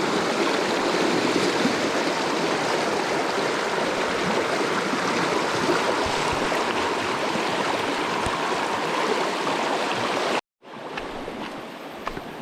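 River water rushing, a steady loud rush. About ten and a half seconds in it cuts out abruptly and comes back quieter.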